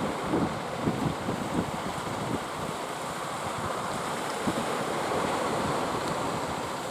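Sea surf and wind noise, with wind gusts buffeting the microphone in irregular low thumps.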